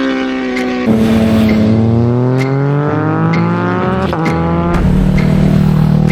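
Motorcycle engine under way: its pitch falls for about a second, then climbs steadily as it accelerates, dipping briefly about four seconds in at a gear change.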